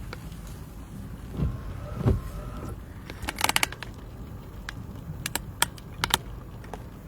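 Handling noise over a steady low rumble: two dull thumps, then clusters of sharp clicks and jingling rattles like keys or small gear being moved.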